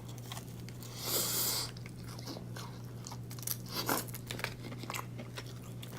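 A person biting into a crispy air-fried chicken tender, one loud crunch about a second in, then chewing with small crunches.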